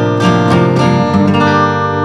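Acoustic guitar with a capo on the third fret, strummed in the campfire down-and-up rhythm. A last chord is struck about a second in and left to ring.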